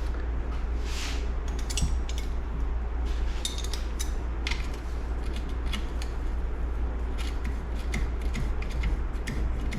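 Light metallic clicks and clinks, scattered and irregular, of small engine parts and hand tools being handled while the gear shift lever is fitted to a motorcycle engine's shift shaft, over a steady low hum.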